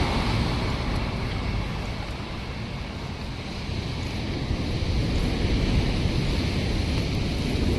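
Wind buffeting the microphone over the rush of surf on the beach: a steady noise that dips about halfway through and swells again.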